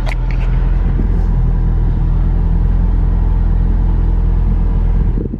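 Car engine running steadily with a low rumble; the sound cuts off sharply a little before the end.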